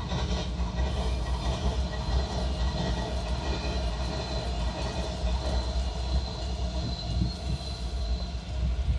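N scale model train running steadily on the layout track: a continuous rumble with a faint high-pitched whine over it.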